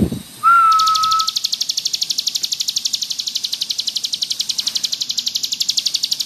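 Ciblek gunung (a prinia) giving its fast, continuous buzzing rattle trill, the 'ngebrem' song prized for master recordings. It is preceded by a knock at the start and a single held whistled note about half a second in.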